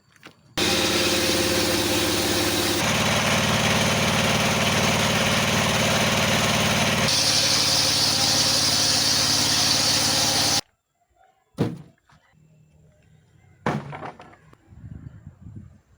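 Engine-driven circular sawmill running and sawing wood: a loud, steady machine sound with a squeal. It starts and cuts off suddenly, changing tone twice in between, and is followed by two sharp knocks.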